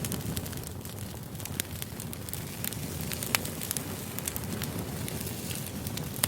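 Wood campfire crackling, with frequent irregular sharp pops over a steady low rumble; one pop about three seconds in stands out as the loudest.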